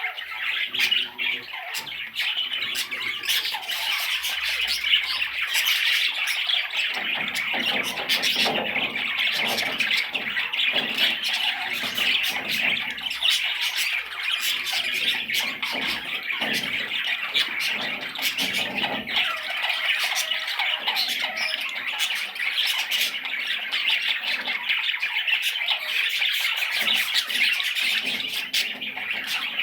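Budgerigar chattering and warbling without a break: a dense stream of scratchy chirps, squawks and clicks.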